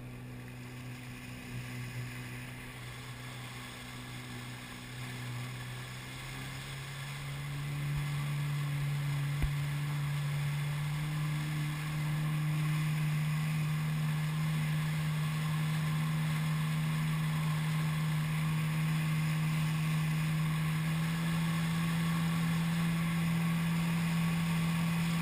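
Jet ski engine running under way, its steady pitch stepping up about a third of the way in and again about halfway as it speeds up, with the hiss of water and wind.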